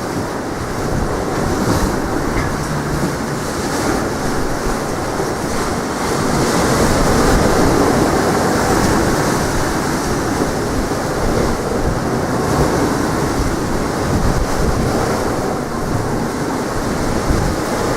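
Sea waves washing onto the shore in strong wind, with wind buffeting the microphone; the surge swells louder about six seconds in.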